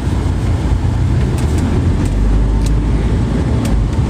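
Steady low rumble of a car in motion, heard from inside the cabin, with a few light clicks.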